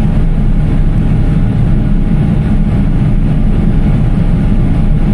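Heavy farm machinery engine running steadily: a loud low drone with a faint steady whine above it.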